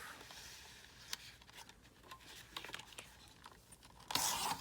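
Scissors cutting through a paper envelope: faint scattered snips and clicks, then a louder paper rustle near the end.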